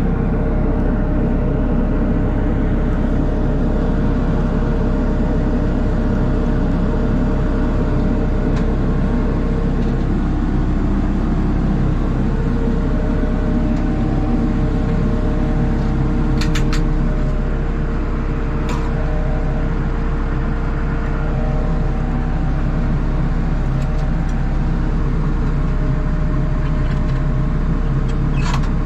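A vehicle engine running steadily, with a few light clicks over it.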